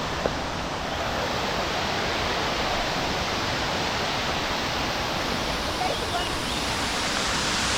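Waterfall pouring steadily, an even rushing noise of falling water.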